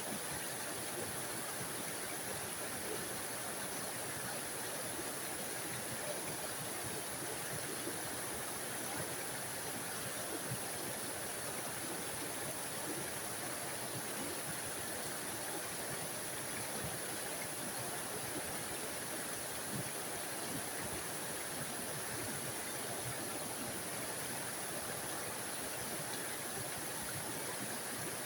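Small waterfall splashing steadily into a mountain stream: a constant, even rush of falling water with no changes.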